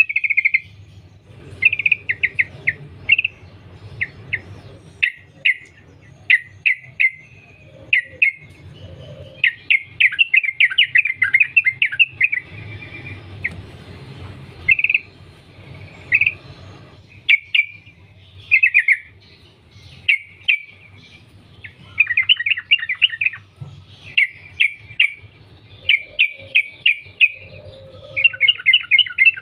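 Yellow-vented bulbul singing continuously: short, bubbly, repeated phrases, with several quicker chattering runs strung together, over a faint low hum.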